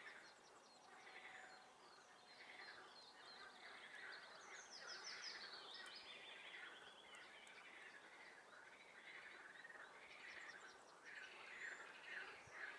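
Faint chorus of frogs calling over and over from a swamp, with songbirds singing trills above them, most noticeably in the middle.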